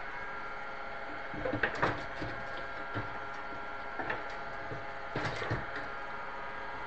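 A few light knocks and clicks in small clusters over a steady hum with several pitches, like things being handled at a kitchen cabinet.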